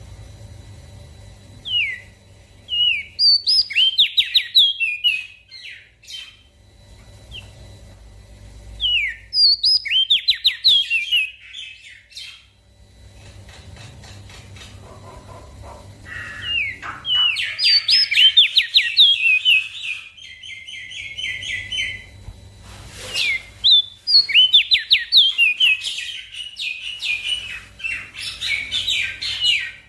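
Crested white-eye (opior jambul) singing in bouts of rapid high chirps and short downward-sweeping notes, with brief pauses between bouts.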